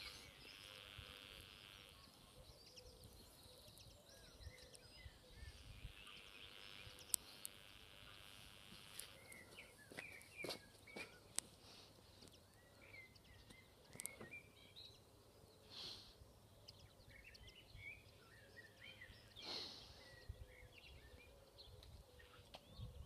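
Near-silent countryside ambience with faint, scattered bird chirps and a few soft clicks.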